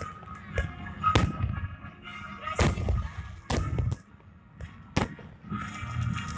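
Festive fireworks salute going off: a string of sharp bangs, several seconds apart and unevenly spaced, over a low rumble of bursting shells, with music playing behind it.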